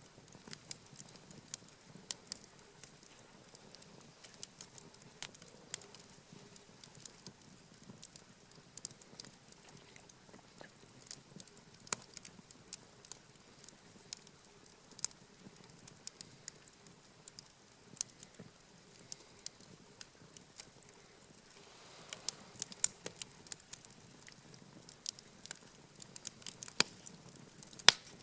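Wood campfire crackling, with irregular sharp pops and snaps that come thicker in the last few seconds, the loudest pop near the end.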